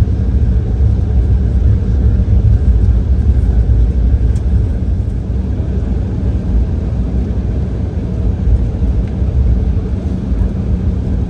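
Cabin noise inside an Embraer E170 airliner: a steady, loud, deep rumble of its GE CF34 turbofan engines and airflow, with a faint steady hum over it.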